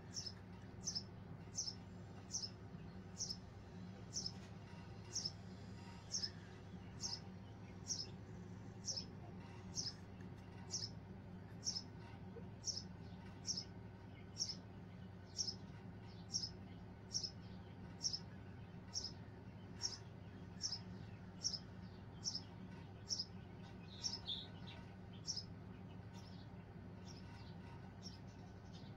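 A bird chirping in an even, steady rhythm, about three calls every two seconds, each a short high note falling in pitch, over a constant low hum.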